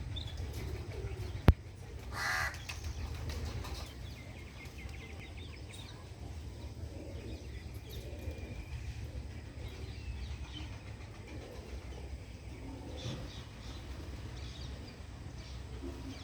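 Birds calling in open fields: scattered short chirps and one harsh, caw-like call about two seconds in, over a steady low rumble. A single sharp click comes just before the harsh call.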